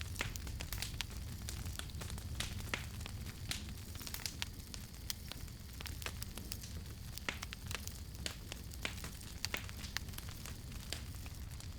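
Campfire crackling, with frequent sharp, irregular pops and snaps over a steady low rumble of the flames.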